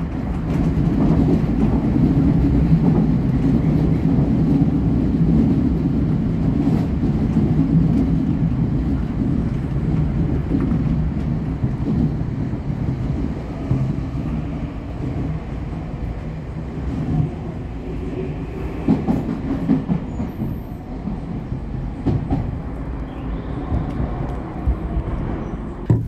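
Nankai Main Line electric train running along the track, heard from inside the car: a steady rail rumble with scattered clicks from the wheels over rail joints.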